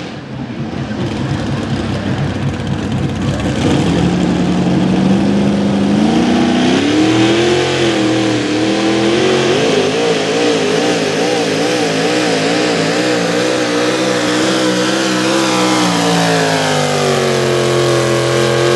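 A pulling truck's big 700-cubic-inch engine running hard at high revs under load as it drags the sled, its pitch climbing over the first several seconds, wavering up and down through the middle of the pull, then sagging in the last few seconds as the engine bogs down.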